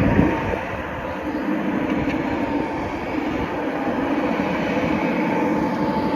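G scale model train locomotives running on the track, pushing a snow plow, with a steady running noise and a faint steady whine.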